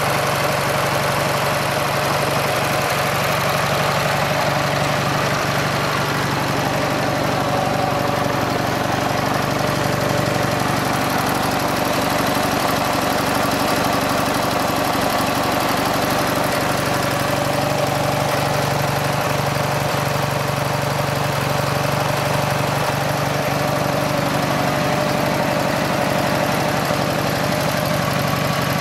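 Ural Cossack motorcycle's flat-twin engine idling steadily, with no revving.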